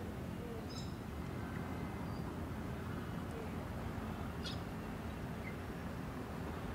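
Two short, high bird calls, about a second in and again about four and a half seconds in, over a steady low background rumble.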